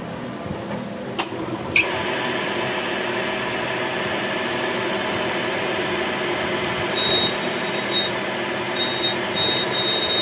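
A lathe running steadily with a hum. After two clicks about a second and a half in it settles into a slightly louder run, and from about seven seconds in a thin high squeal comes and goes.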